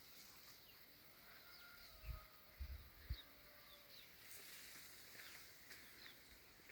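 Faint birdsong: scattered short chirps and quick whistled notes from several birds. A few low thumps, likely wind or handling on the microphone, come about two to three seconds in.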